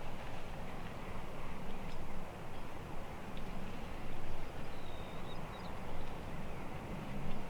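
Steady outdoor background noise in the field, with a faint, short high chirp about five seconds in.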